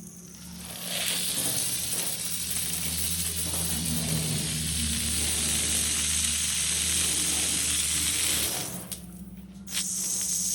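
High-pressure water jet spraying from a garden hose fitted with a gas valve, a steady hiss that starts about a second in, breaks off briefly near the end and starts again.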